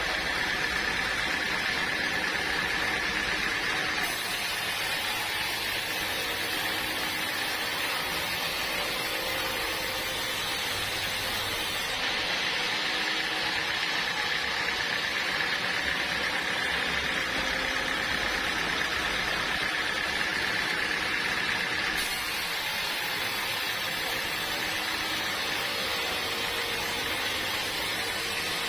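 Sawmill machinery running steadily: a continuous mechanical noise with a steady high whine, shifting abruptly in character three times.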